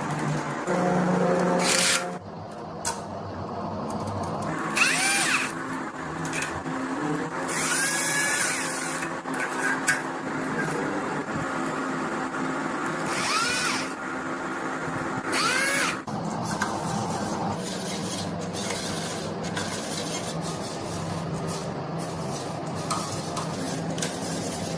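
A handheld power tool, drill-like, run in several short bursts; its whine rises and falls in pitch each time. A steady low hum runs underneath.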